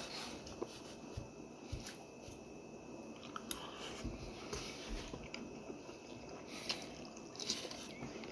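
A person chewing food close to the microphone, with soft wet mouth smacks and scattered small clicks.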